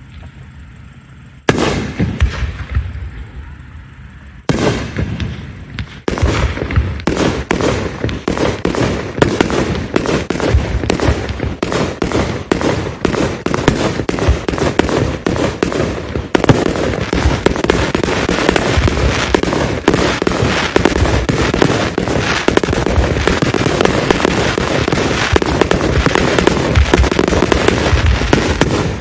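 Aerial fireworks shells bursting: two single bangs, one about a second and a half in and one about four and a half seconds in, each trailing off. From about six seconds a rapid, unbroken barrage of bursts follows.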